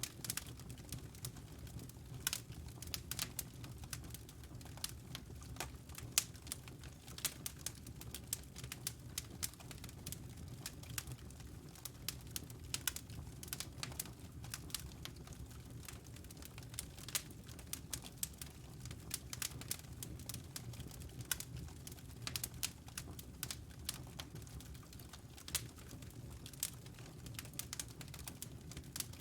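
Wood logs burning in a fireplace, crackling with frequent irregular sharp pops over a steady low rumble.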